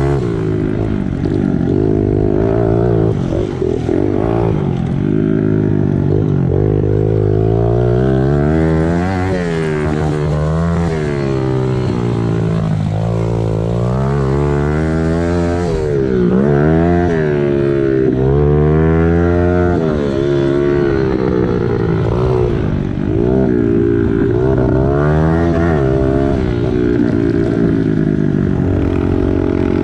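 Small four-stroke single-cylinder pit bike engine being ridden hard, its revs climbing and dropping again and again every couple of seconds as the throttle is opened and closed.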